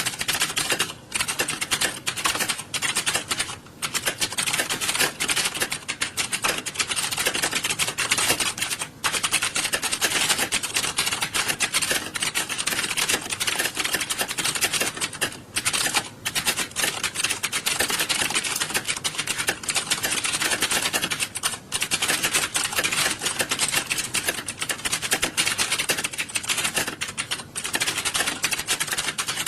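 Computer keyboards being typed on in an exam hall during a typing test: a dense, continuous clatter of overlapping key clicks, with a few brief lulls.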